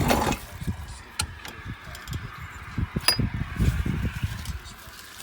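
Hawk 250 dirt bike being kick-started: irregular clunks and low thumps as the engine is turned over without firing, a heavy one at the start and a run of them about three to four seconds in. The engine is hard to roll over.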